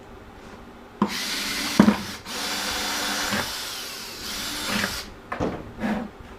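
Power drill running, its bit boring holes through the bottom of a plastic bucket. It runs for about four seconds with a brief stop about two seconds in.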